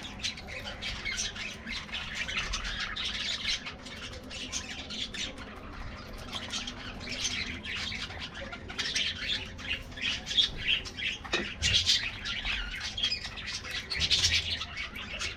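A flock of budgerigars chattering and squawking continuously, many birds calling over one another, with a single knock about eleven seconds in.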